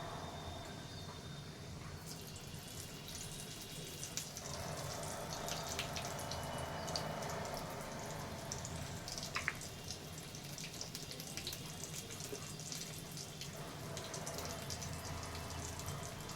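Snacks frying in hot oil: a dense crackling sizzle that starts about two seconds in, over a steady low hum.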